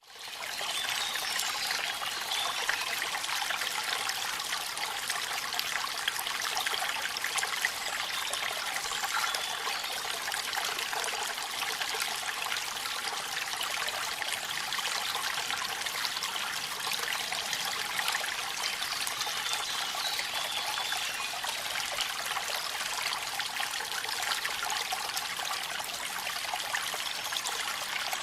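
Waterfall water splashing in a steady, even rush with little deep rumble. The sound dips sharply at the very start and comes back within about a second.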